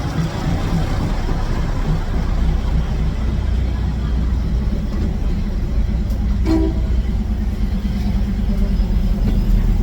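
Diesel train passing slowly at close range, its engine running with a steady low drone.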